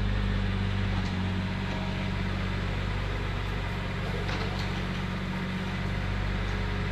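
Diesel engine of heavy landscaping machinery running steadily with a low, even drone, working to push a transplanted evergreen into place.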